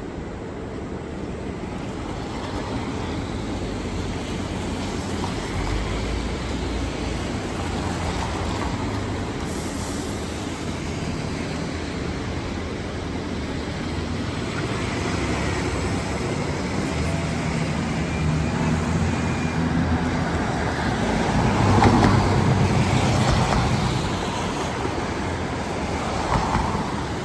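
City street traffic on rain-soaked roads: motor vehicles passing with tyre hiss over a steady wash of noise, building to the loudest pass of a vehicle with a low engine hum about three-quarters of the way through.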